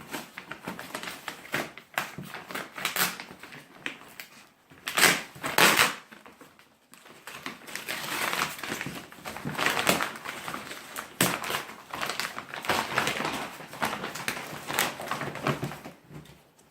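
Irregular crunching and scraping with many sharp clicks and knocks, the loudest pair about five seconds in, like things being handled and moved about.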